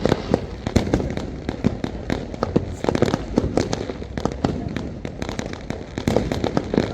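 Fireworks going off in a dense, continuous barrage: many sharp bangs and pops, several a second, overlapping one another.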